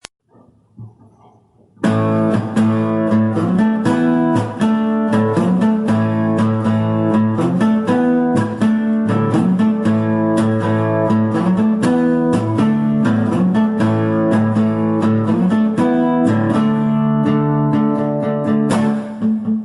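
Guitar playing a song's intro, plucked and strummed chords in a steady rhythm, starting abruptly about two seconds in after a few faint soft sounds.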